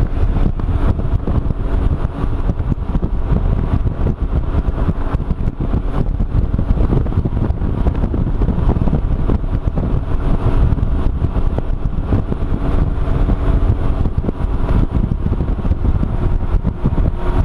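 Can-Am Ryker three-wheeled motorcycle riding at steady speed: its engine's drone under heavy wind buffeting on the microphone.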